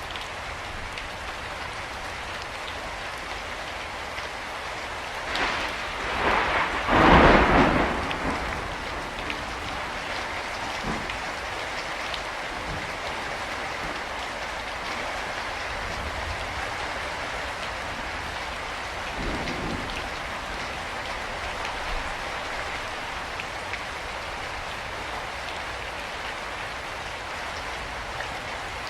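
Steady rain falling. About six seconds in, a louder, deep-reaching swell builds and fades over about three seconds, and a smaller one comes near twenty seconds.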